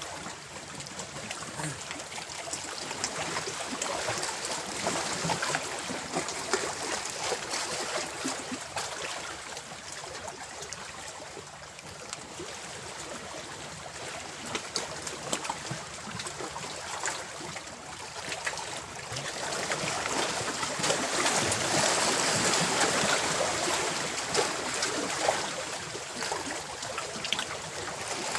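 Water running and trickling steadily, with small splashes, growing louder for a few seconds about twenty seconds in.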